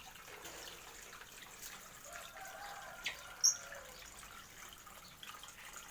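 Faint, steady trickle of running water, with a single short, high bird chirp about three and a half seconds in.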